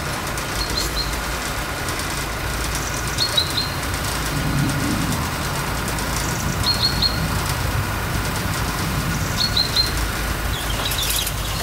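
Steady rumble of a car driving along. Over it a bird gives a quick, high three-note chirp every few seconds, about five times.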